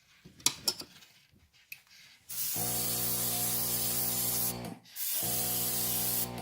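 Airbrush spraying paint in two long bursts of hiss, with the steady hum of its small compressor starting and stopping with each burst, after a few light handling clicks.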